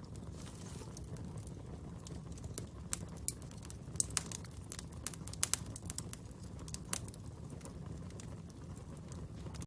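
Wood fire burning with a steady low rumble and a run of sharp crackles and pops in the middle.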